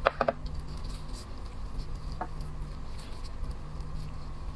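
Small clicks and scratchy ticks of shellfish shells being handled and pulled apart by hand: a quick cluster at the start, one louder tick about two seconds in, faint scattered ticks otherwise, over a steady low hum.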